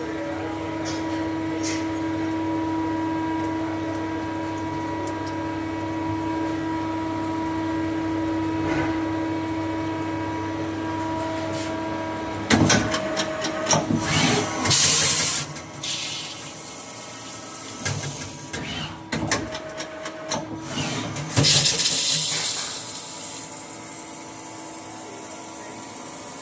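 CNC machine running: a steady motor whine with fixed tones for about the first half, then loud, irregular bursts of cutting noise starting and stopping several times through the second half.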